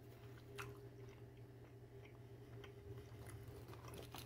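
Faint mouth sounds of a person chewing a chicken nugget, with a few soft clicks, over a steady low hum.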